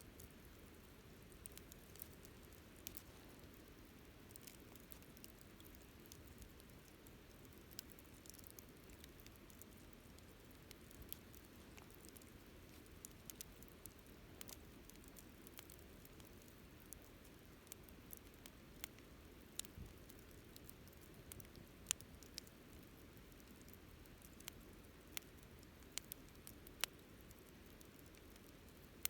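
Wood campfire crackling: irregular sharp pops and snaps over a faint steady low background, one louder snap about three quarters of the way through.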